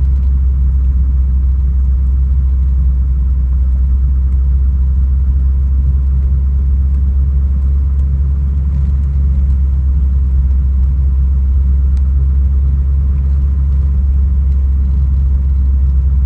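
1958 Ford Thunderbird's V8 and road noise while driving at low speed, heard from inside the car as a steady low rumble.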